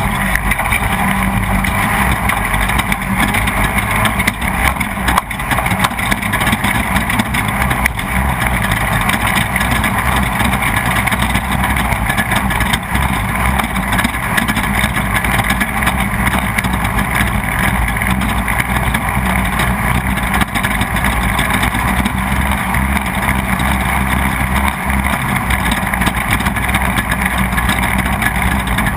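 Off-road race car's engine running steadily under load at race pace, heard from on board, with a few short knocks from the rough ride.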